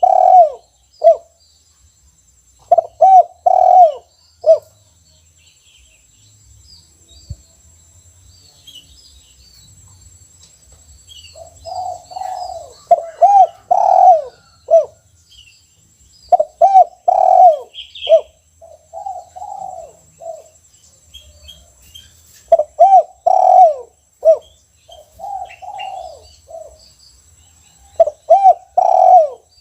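Spotted dove (tekukur) cooing: repeated song phrases of several arching coos, about eight bouts with short pauses between, of the single-'kuk' (kuk satu) song type. Faint chirps of small birds in the background.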